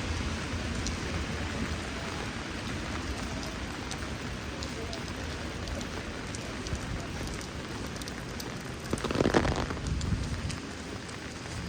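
Heavy rain falling steadily, with scattered drops ticking. About nine seconds in there is a brief, louder sound.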